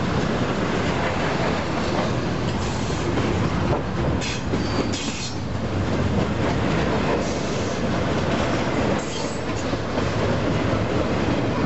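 Double-stack intermodal container train rolling past: a continuous rumble of steel wheels on rail with clickety-clack, broken by a few brief high-pitched wheel squeals.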